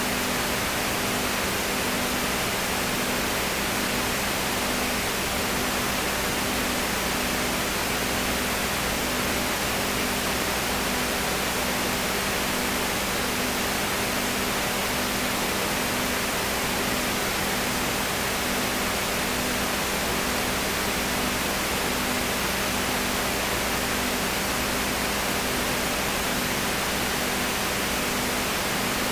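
Steady hiss with a faint low hum that pulses evenly, with no other sound: the noise floor of an old recording.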